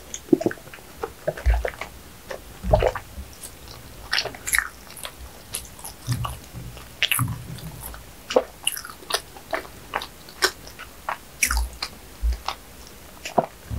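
Close-up eating sounds of a person chewing a mouthful of bread: irregular wet mouth clicks and soft crackles, with a few soft low thumps.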